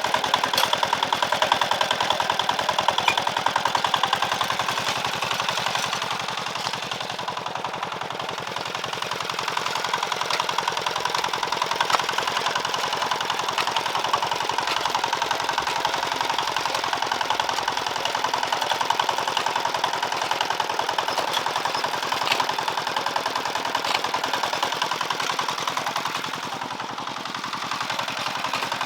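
Small engine running steadily, a rapid even stream of firing pulses, dipping slightly in level a few times.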